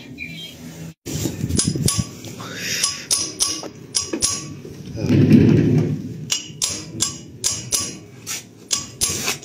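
Repeated sharp knocks and taps of a hammer and tools on metal, irregular at roughly two or three a second, with a louder rough stretch in the middle, during work on the three-wheeled motorcycle's burnt-out clutch.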